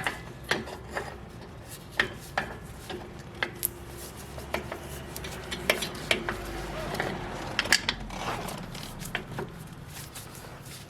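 Metal parts and hand tools clinking and tapping at irregular intervals as a new rear brake wheel cylinder is fitted to a drum brake backing plate.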